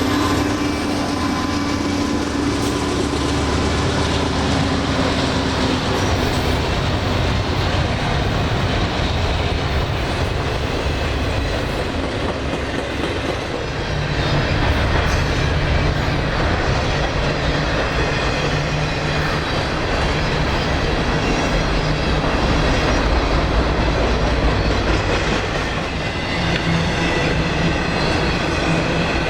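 Train rolling past at close range: a continuous rumble of rail cars with wheels clattering over the rail joints and a thin wheel squeal running over the top.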